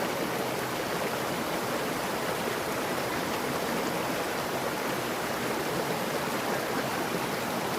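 Mountain stream flowing and splashing over rocks, a steady rushing of water.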